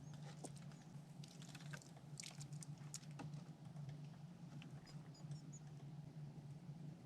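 Faint clicking and scratching of small animals at a feeder, densest about one to three seconds in, with a few faint high chirps later, over a steady low hum.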